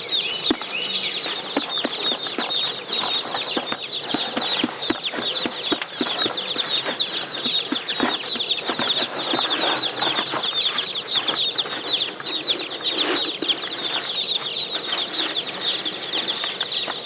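A brood of Cornish Cross meat chicks peeping nonstop, many high, short, downward-sliding peeps overlapping, with occasional light knocks among them.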